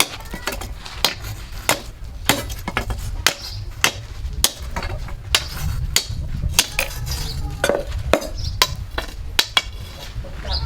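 Hammer blows on steel: an irregular series of sharp metallic strikes, about one to two a second, over a low steady rumble.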